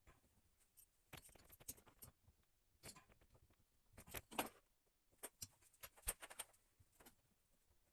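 Faint scattered clicks, taps and rustles of hands working small plumbing fittings. The loudest cluster comes about four seconds in, with a few sharp ticks a second or two later.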